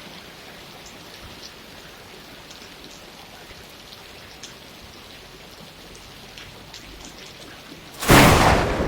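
Steady rain falling, with scattered drops ticking through the hiss, then a sudden loud clap of thunder near the end.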